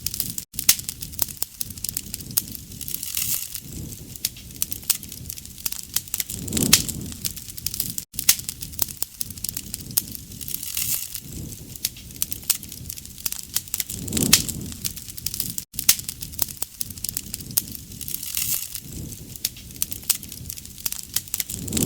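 Wood fire crackling and popping: dense sharp snaps with a soft low whoosh every few seconds. The same stretch repeats about every seven and a half seconds, as a looped recording.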